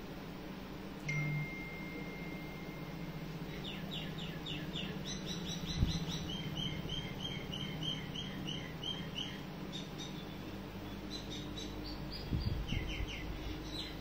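A bird chirping: one long steady high whistle, then quick runs of short high chirps, several a second, which stop and start again near the end, over a low steady hum.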